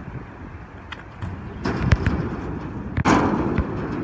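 A few sharp knocks, then a louder impact about three seconds in that trails off in a short noisy rush.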